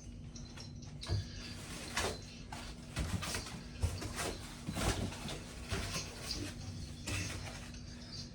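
Packing material and cardboard being handled while statue parts are lifted out of a box: irregular scrapes, rubs and soft knocks.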